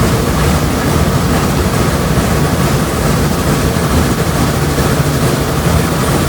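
Train running with a steady low rumble and hiss, without distinct beats.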